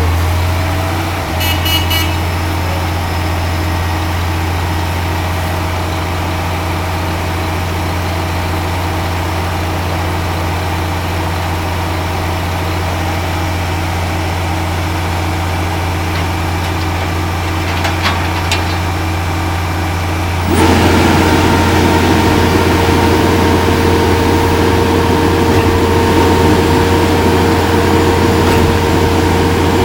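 Heavy diesel engines of a concrete mixer truck and pump running steadily at low speed. About twenty seconds in the running suddenly gets louder and a steady whine joins it, as the machinery is run up.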